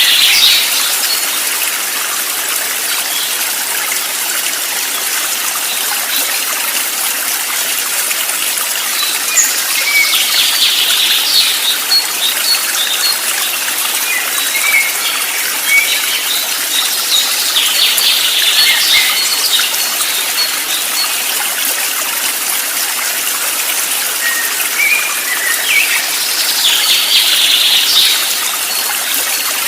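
Steady rush of a flowing stream, with four bursts of birdsong roughly eight seconds apart and a few short chirps between them.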